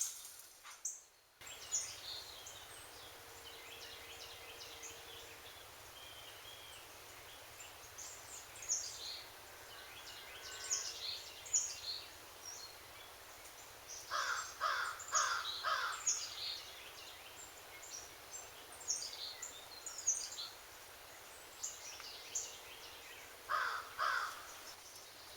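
Songbirds chirping throughout, with a crow cawing four times in a row about halfway through and twice more near the end.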